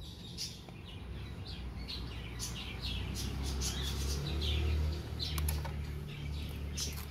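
Small birds chirping in short, quick calls, a few every second, over a low steady hum.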